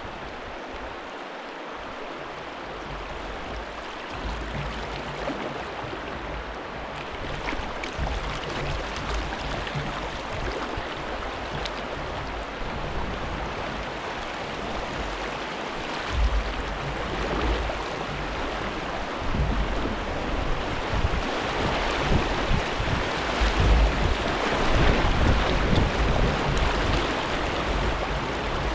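Rushing river water with wind buffeting the microphone, a steady hiss that grows louder toward the end, with uneven low rumbles.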